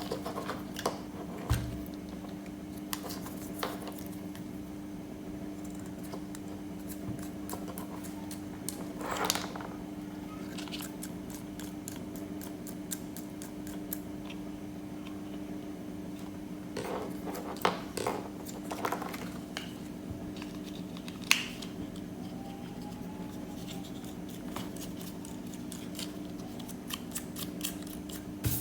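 Scattered snips, clicks and short scratches of hands-on work, such as cutting and handling parts, over a steady low hum.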